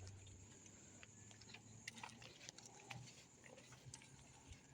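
Near silence: faint outdoor ambience with a few faint clicks.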